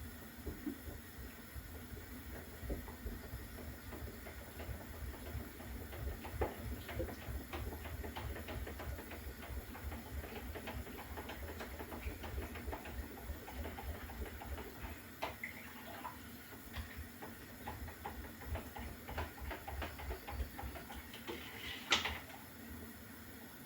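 A wooden spoon stirring Guinness punch in a container: faint, irregular light knocks against the sides and soft swishes of liquid, with one louder knock near the end.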